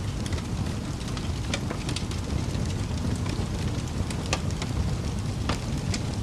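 Wood fire burning in a fireplace: a steady low rumble with scattered sharp crackles and pops, a few close together about two seconds in and a louder pop near the end.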